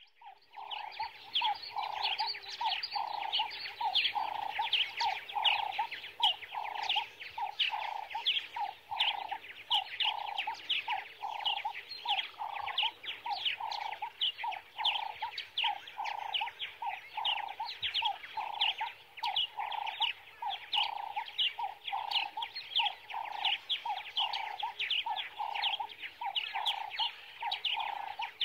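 A bird calling over and over in a steady rhythm, about one and a half calls a second: each call is a low note with a short, high falling chirp.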